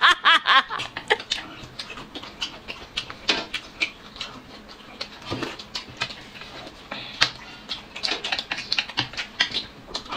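Close-up eating sounds: chewing and lip smacking, a quick irregular run of wet clicks, with a brief voice in the first second.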